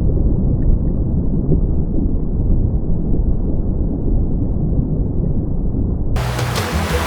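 A deep, steady rumble with no high end to it, like a distant roar. About six seconds in it gives way to the hiss of surf.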